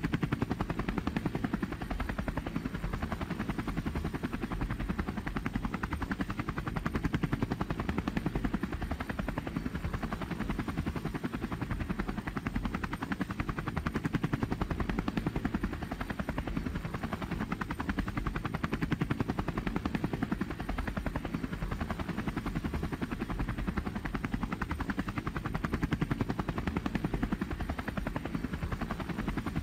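Steady, rapid mechanical chopping drone, strongest in the low end, unbroken throughout.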